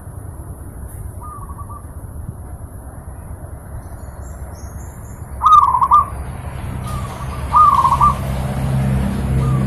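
Zebra dove (perkutut) cooing: four short rolling coo phrases, the two in the middle louder and the first and last faint, over a steady background hiss. A low hum builds in the second half.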